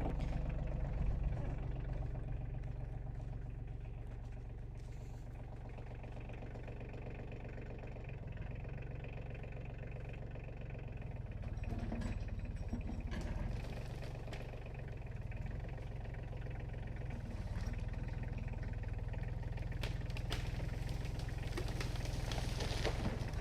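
Tractor engine running steadily as it pulls on a chained pine that is hung up in another tree, with a few short knocks partway through.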